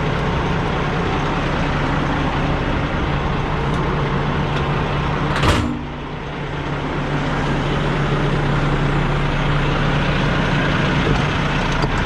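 Semi-truck's diesel engine running with a steady low hum and noise. About five and a half seconds in there is a brief sharp burst, after which the sound drops and builds back up.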